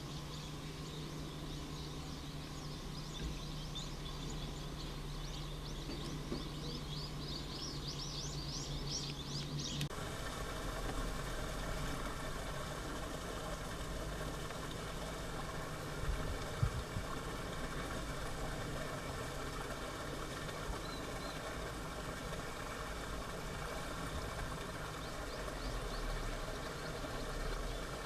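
Outdoor field recording: a steady low hum with a run of short high chirps for about ten seconds. Then an abrupt cut to a steady mechanical drone, like a distant engine running, with a brief knock partway through.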